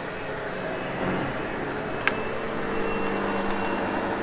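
Sebo X8 upright vacuum running steadily as it is pushed over carpet, with one sharp click about two seconds in; its hum gets a little louder after that.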